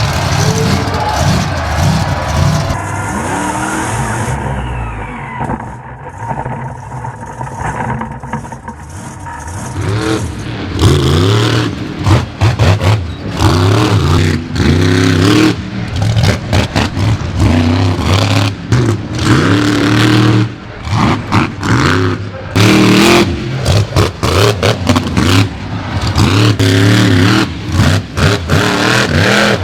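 Monster truck engines revving hard in repeated throttle bursts, the pitch rising and falling with each blip. The sound is quieter and muffled from about three to ten seconds in, then comes back loud.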